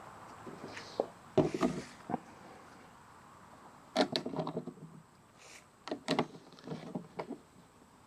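Irregular knocks, clicks and clatter of hard objects being handled and set down, in several short clusters.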